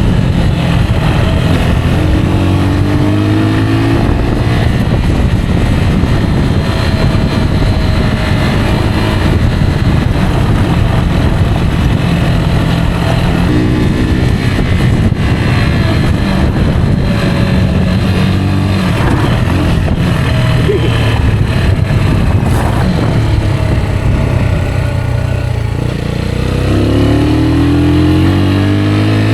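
Rieju Aventura 125 motorcycle's single-cylinder engine running under way, its pitch climbing with the throttle several times, over a steady rushing noise.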